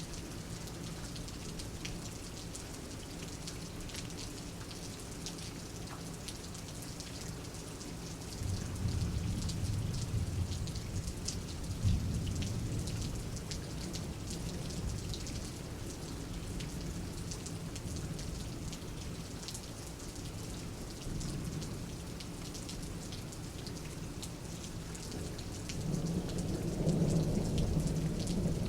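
Steady rain falling, with many small drops pattering, and thunder rolling low in the background. The rumbles swell about eight seconds in and again near the end.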